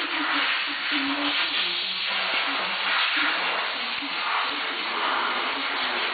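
Porsche 911 3.2 air-cooled flat-six engine running on a stand, a steady hissing rush with an uneven low hum underneath.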